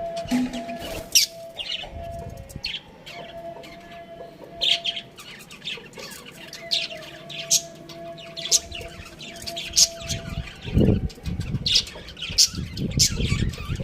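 A flock of budgerigars chirping, many short high chirps in quick succession. A faint steady hum runs under the first ten seconds, and low thumps and rumbles come in over the last few seconds.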